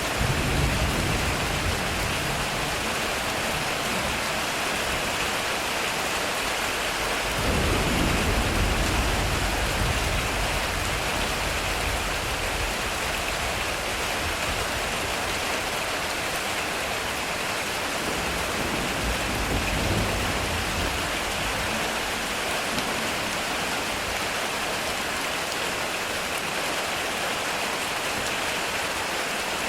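Heavy rain falling steadily on a metal roof, with low rolls of thunder rumbling twice, once about a quarter of the way through and again a little past the middle.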